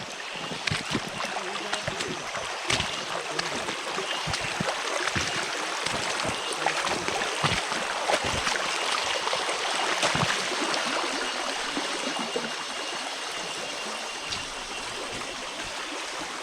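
A small stream running over rocks: a steady rush of water with many small splashes and trickles through it.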